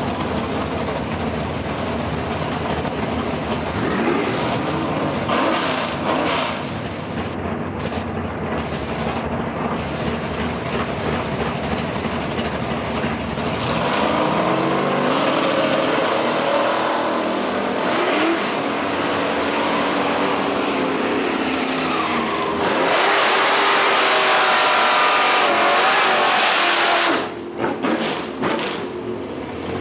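Ford Lightning's Chevrolet 6.1 engine running and revving, its pitch rising and falling several times. The loudest part is a long, hard rising pull about three-quarters of the way through, which cuts off suddenly.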